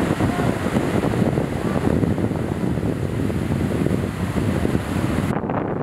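Wind buffeting the microphone: a loud, steady rumbling rush. The high hiss cuts out abruptly near the end.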